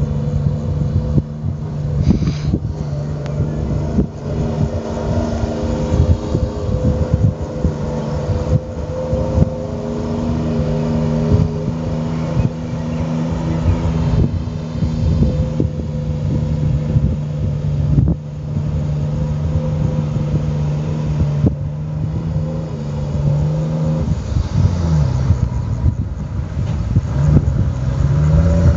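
Off-road vehicle's engine running steadily under load as it wades through deep river water, its pitch dipping and rising in a few quick revs near the end.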